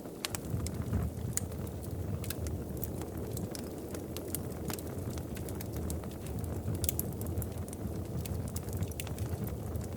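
Wood fire in a fireplace crackling, with irregular sharp pops and snaps several times a second over a low steady rumble.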